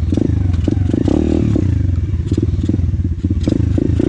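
Orion AGB 37 125cc pit bike's four-stroke single running under way, briefly revving up about a second in. Frequent clattering knocks as the bike rattles over rough dirt track.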